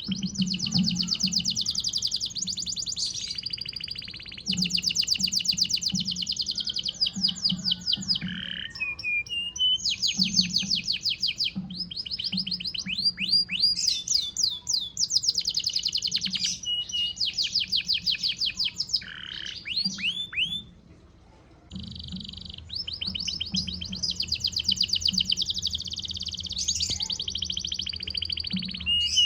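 A domestic canary in moult singing hard. Its song is long, fast trills of rapidly repeated notes mixed with sweeping whistled notes, and it breaks off for about a second two-thirds of the way through.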